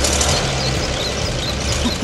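Tractor engine running steadily with a low, even drone. A few faint, short high chirps sound above it in the middle.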